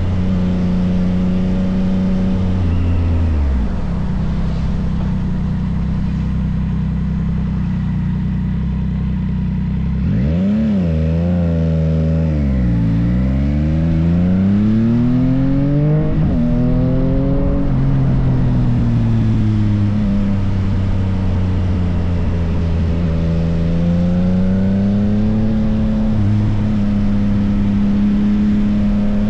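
Yamaha XSR900's three-cylinder engine running through an M4 full aftermarket exhaust, its note rising and falling with the throttle, with quick dips and climbs in pitch about ten seconds in.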